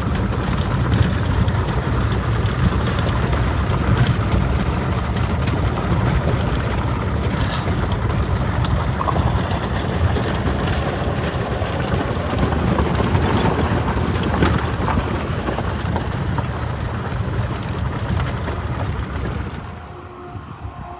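Wind buffeting the microphone over the steady rumble of a freight train running by. About twenty seconds in, the noise drops off sharply.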